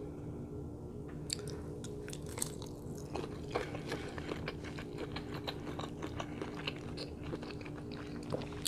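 Chewing of boiled shrimp, with a string of small wet mouth clicks and smacks.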